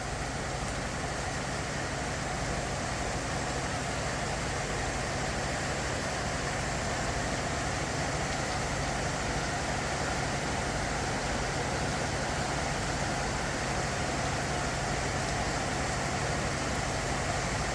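Steady rain falling, an even hiss that holds at one level throughout, with a steady low hum beneath it.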